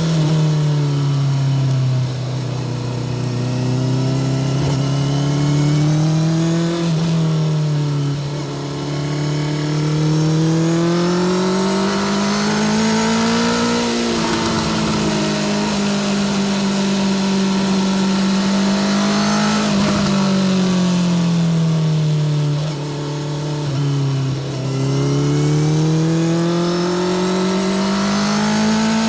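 Honda CBR650R inline-four engine through a Spark full titanium short exhaust, under way. The engine pitch climbs and falls slowly as the bike accelerates and slows, with a sudden drop in pitch about seven seconds in, as on an upshift.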